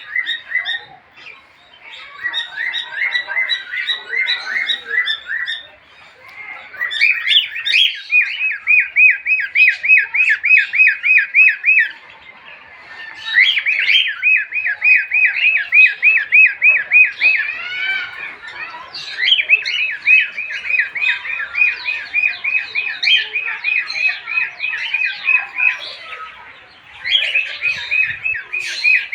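Bird calls: long runs of quick, evenly repeated chirps, several a second, broken by short pauses.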